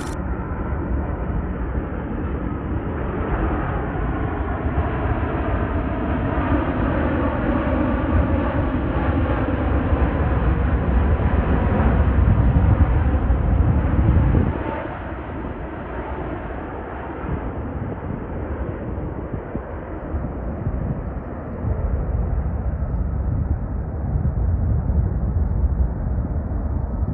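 Jet airliner passing close on landing approach: engine noise swells to a peak about halfway through with a whine that glides down in pitch, then drops away suddenly, leaving a lower rumble.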